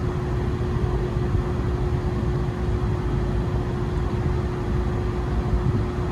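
2019 Carrier rooftop air-conditioning unit running in cooling mode: a steady, unbroken mechanical drone with a constant hum tone.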